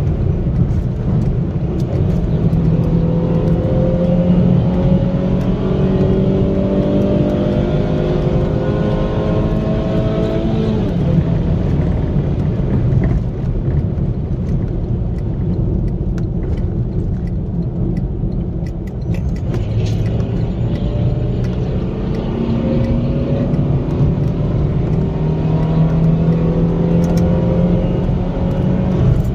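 Car engine heard from inside the cabin over steady road rumble. Its note rises slowly under acceleration for several seconds, drops suddenly about eleven seconds in, holds steadier, then climbs again over the last third.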